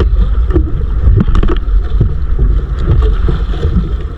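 A bangka's motor running steadily, with wind rumbling on the microphone.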